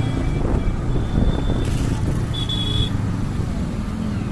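Steady low rumble of motor-vehicle engine and road traffic, with two short high-pitched tones about a second in and again about two and a half seconds in.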